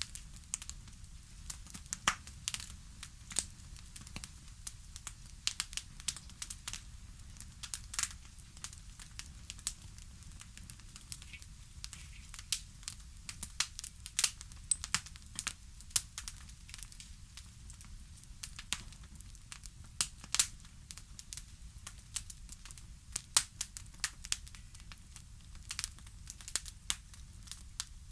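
Wood fire in a fireplace crackling: irregular sharp pops and snaps several times a second over a steady low rumble.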